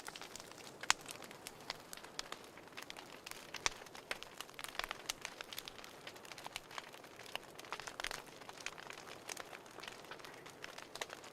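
Wood fire crackling in a fireplace: irregular sharp pops and snaps over a soft hiss, the loudest pop about a second in.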